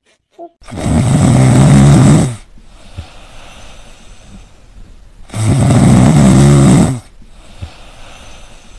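Snoring: two long, loud snores about four seconds apart.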